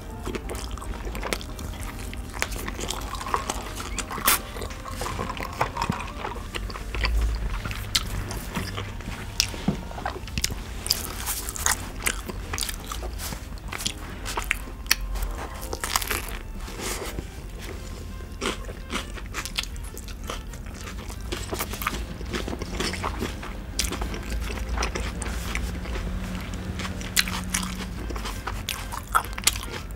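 Close-miked eating of a Burger King bulgogi burger: bites into the soft bun and filling and steady chewing, with many sharp wet mouth clicks and light crunches.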